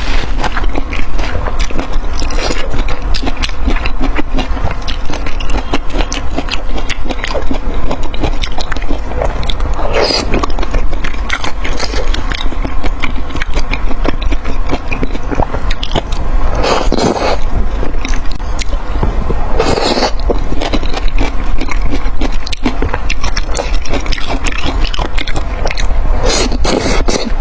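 Close-miked eating sounds: continuous crackly chewing and scraping, with a few louder bursts.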